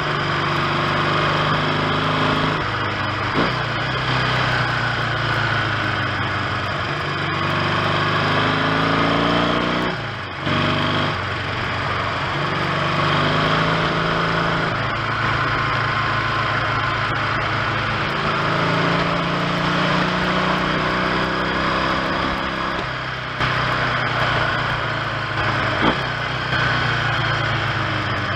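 1970 Triumph T100C's 500 cc parallel-twin engine under way on the road, its note climbing repeatedly as it pulls through the revs, with a brief drop and break about ten seconds in at a gear change. The engine runs evenly, with freshly fitted ignition points and new clutch plates.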